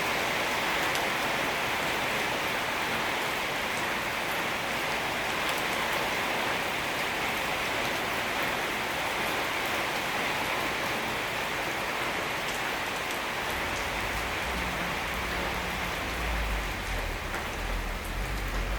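Steady rain falling on a surface: a dense, even hiss with scattered taps of individual drops. About three-quarters of the way through, an uneven low rumble joins it.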